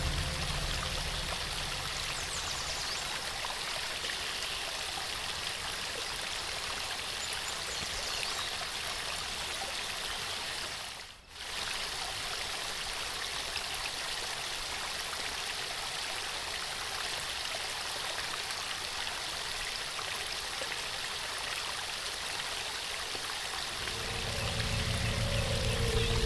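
Waterfall water rushing steadily, with a brief drop in level about eleven seconds in. Soft music with low tones comes in near the end.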